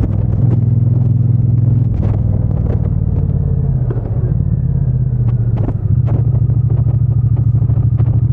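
Triumph Bonneville T120's 1200 cc parallel-twin engine and exhaust running steadily under way, with brief drops in level about four seconds in and again just before six seconds, then picking back up. Scattered light ticks sit over the engine note.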